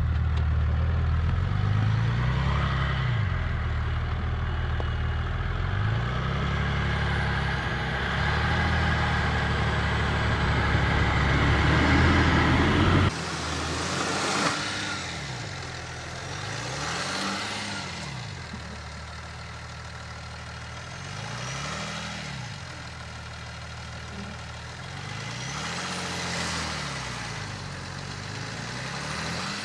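Opel Vectra C's 3.0 V6 turbo-diesel revving up and down again and again as its front wheels spin in sand and snow: the car is stuck on the climb. The sound is loud at first and drops sharply about 13 seconds in. After that the revs come about every four to five seconds, each rising in pitch and falling back.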